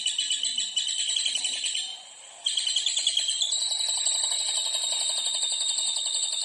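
Songbird singing a rapid, high chattering trill; it breaks off briefly about two seconds in, then resumes as a steadier, even trill.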